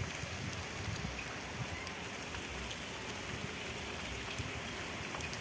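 Steady rain falling on a wet street: an even hiss with scattered faint drop ticks.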